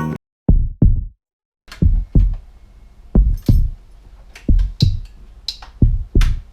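Heartbeat sound effect: five deep double thumps, lub-dub, about a second and a half apart, as a suspense effect.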